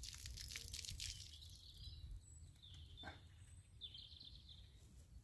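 Quiet outdoor ambience with a low steady rumble. From about a second and a half in, a few faint, high bird calls sound in short phrases.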